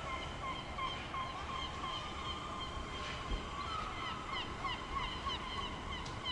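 A flock of birds calling: a continuous string of short calls, each with a quick bend in pitch, several a second, from many birds at once over a low steady background hum.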